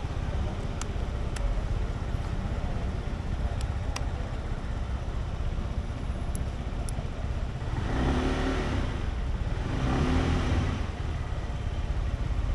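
Riding noise on a Sym Jet X 125 scooter: its single-cylinder four-stroke engine running under a steady rumble of wind and road noise. Two louder swells of engine sound come about eight and ten seconds in.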